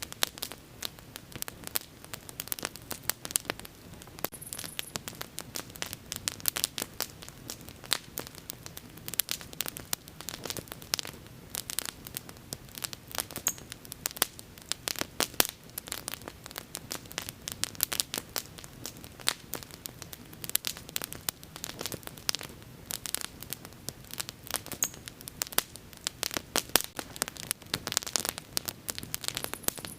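Wood fire burning with dense, irregular crackling and snapping over a low steady hiss.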